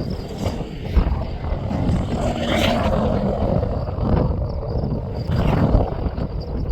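Cattle mooing, two drawn-out calls, over wind rumbling on the microphone.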